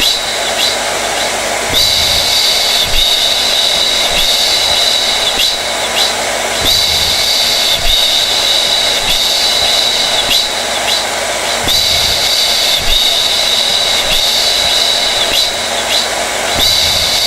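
Hair dryer running steadily: an even rush of air with a high motor whine that fades and returns about every five seconds.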